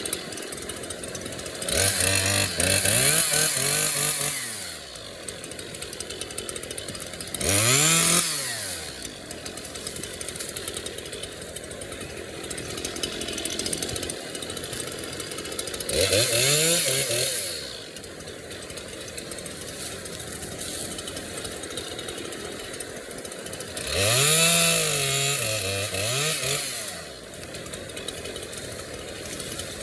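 Chainsaw revving up four times for one to three seconds each and dropping back to idle in between, the high hiss of each surge typical of the chain cutting through logs.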